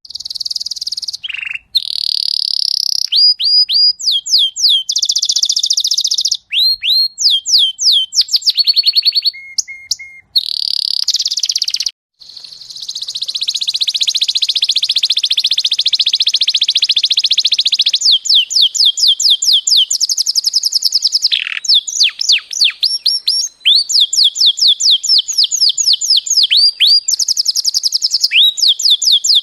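Domestic canary singing a long, continuous song of rapid trills: runs of quickly repeated high sweeping notes, with a long rolling phrase in the middle and only a few brief pauses.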